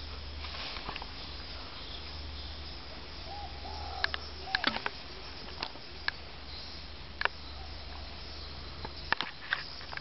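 Bird calls outdoors: a few short, low, curved calls a little past three seconds in, then sharp short chirps scattered through the second half. A steady low hum underneath stops near the end.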